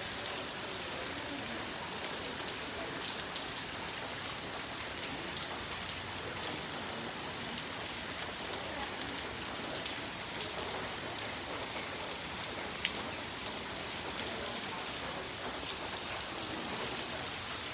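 Light rain falling steadily, with scattered sharp ticks of single drops hitting.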